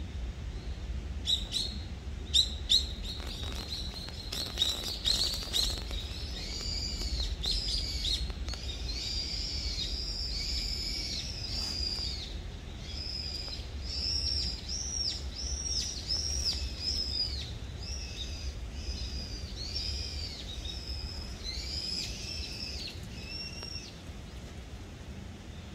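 A songbird calling: a few loud, sharp chirps in the first seconds, then a long series of repeated arching notes, about two a second, that stops shortly before the end. A low steady rumble lies underneath.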